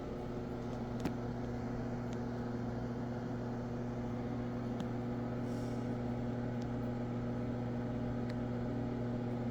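Penn Barry Zephyr exhaust fan running steadily: a constant motor hum with airflow hiss. A single sharp click sounds about a second in.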